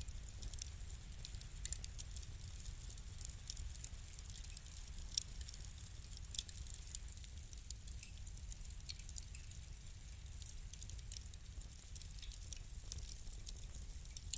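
Wood fire crackling: frequent small sharp pops and snaps over a steady low rumble, with one louder crack about five seconds in.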